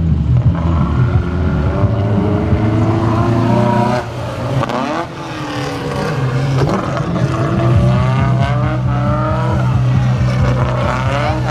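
Race car engines revving hard on a track, their pitch sweeping up and down again and again with each throttle blip and gear change.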